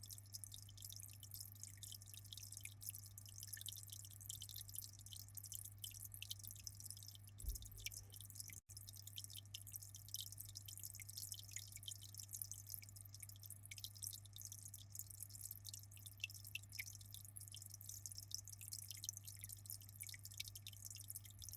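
Aquarium water trickling and dripping in a dense, fine crackle, over a steady low hum. The sound drops out for an instant about eight and a half seconds in.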